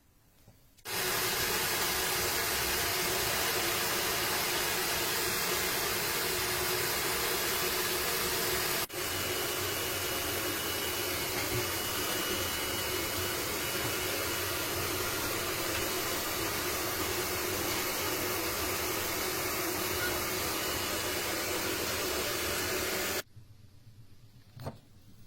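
A motor-driven workshop machine running steadily with an even, hissing noise and a faint hum. It starts suddenly about a second in, breaks off for an instant around nine seconds in, and stops suddenly near the end.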